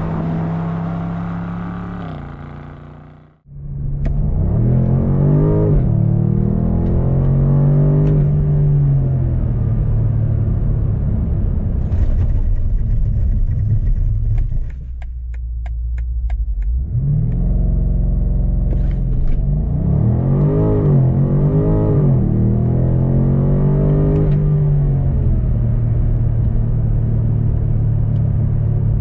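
BMW M850i's 4.4-litre twin-turbo V8 revving, its pitch climbing and falling again several times. The engine sound fades out about three seconds in and cuts back in, and there is a quieter spell in the middle with a quick run of light clicks.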